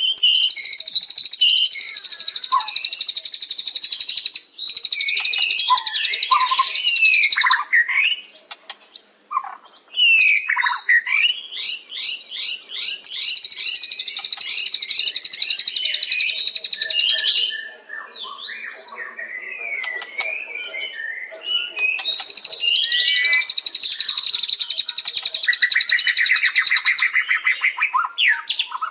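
White-rumped shama (murai batu) singing. Its song is three long, very fast, high trills of several seconds each, broken by shorter varied whistled phrases that slide up and down.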